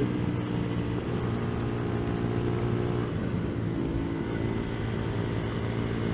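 CFMoto Papio's small single-cylinder motorcycle engine running steadily under way, with road and wind noise beneath it.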